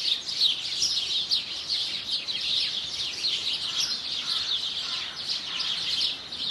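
Birds chirping: a steady stream of quick, high chirps that slide downward, overlapping one another without a break.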